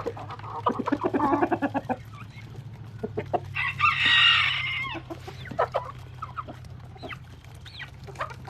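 Chickens clucking, with a rooster crowing once about three and a half seconds in, the loudest sound here.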